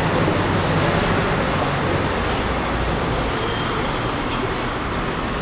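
Steady road traffic noise, a low rumble and hiss of passing vehicles, picked up by a camera's microphone. From about halfway in, faint high-pitched squeaks or chirps sound over it.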